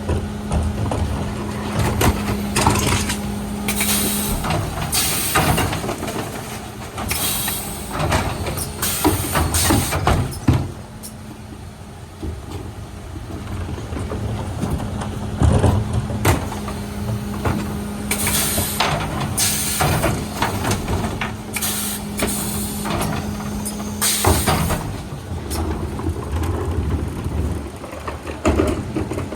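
Mercedes Econic refuse truck with a Faun Variopress body at work. A steady hum drops out for a stretch in the middle and comes back, over repeated short air hisses and clanks and knocks.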